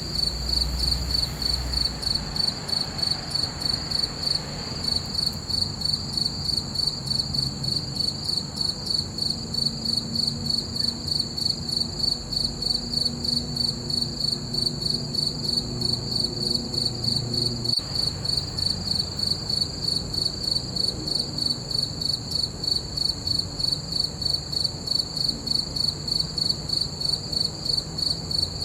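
Crickets chirping in a steady, even rhythm of high pulsed trills, with a faint low rumble underneath.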